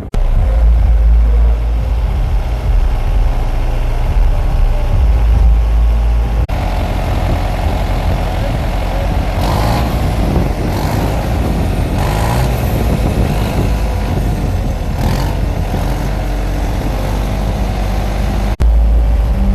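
Tractor engine running with a deep, steady rumble, broken by abrupt changes about six seconds in and near the end.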